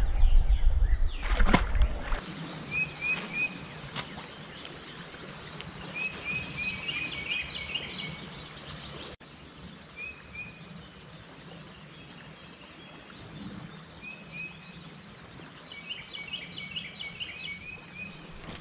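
Songbirds singing: short runs of quick high chirping notes come several times, the longest about six seconds in and again near the end, over a steady outdoor hiss. A loud low rumble fills the first two seconds.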